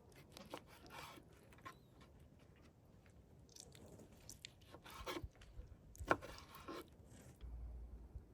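Scattered light scraping, rubbing and knocking of hands-on food preparation, with one sharper knock about six seconds in.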